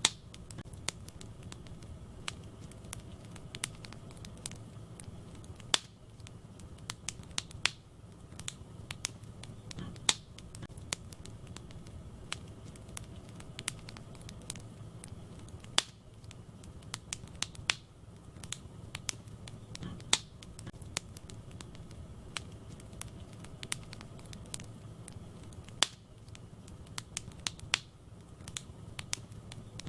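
Wood fire crackling in a fireplace: irregular sharp pops and snaps of burning logs over a low steady background, with a louder pop every few seconds.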